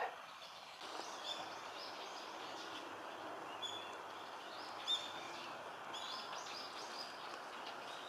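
Small birds giving short, high chirps at irregular intervals, one louder chirp about five seconds in, over a steady hiss of background noise.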